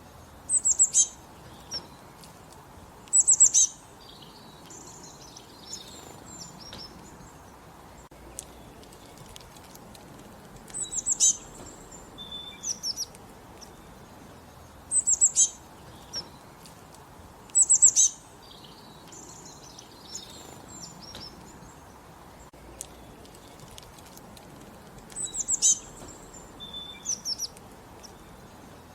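Small birds singing, short bursts of high chirps and trills repeating every few seconds, over a soft steady background.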